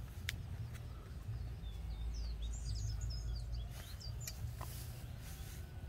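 Birds chirping in short, high calls for a couple of seconds in the middle, over a low steady outdoor rumble.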